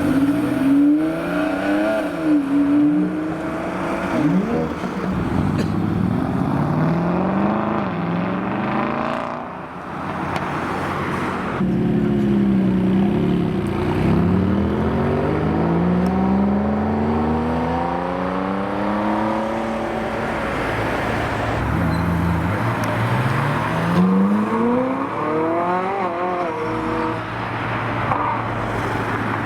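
Supercar engines revving and accelerating, their pitch climbing and dropping again and again through throttle blips and gear changes, with a long rising sweep about half way through and another near the end.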